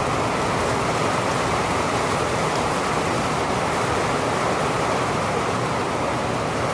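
Rain falling steadily, an even rushing hiss without any rumble or crack of thunder.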